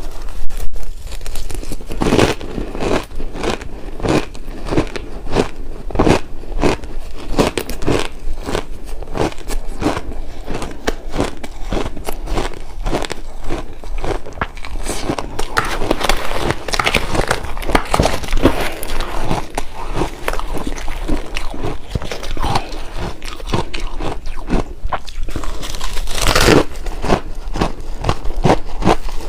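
Close-miked biting and chewing of shaved ice and ice chips: a dense, irregular run of crunches, with a louder crunch near the end.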